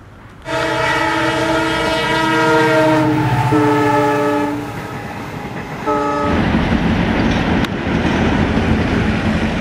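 Locomotive horn sounding a long multi-tone blast that shifts pitch partway through, then a short second blast about six seconds in. The train then runs past with wheel clickety-clack on the rails.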